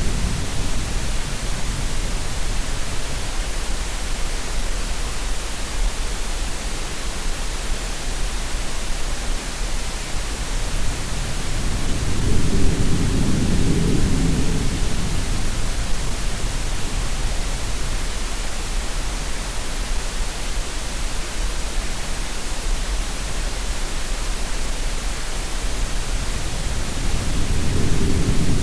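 Steady green-noise hiss with a low surge of sea waves swelling and fading twice: once midway and again near the end.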